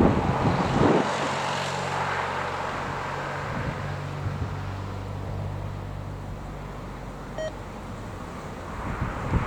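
A fixed-wing aircraft's engines run with a steady low drone that fades away after about seven seconds. Strong wind gusts buffet the microphone at the start and again near the end. A single short beep sounds about seven and a half seconds in.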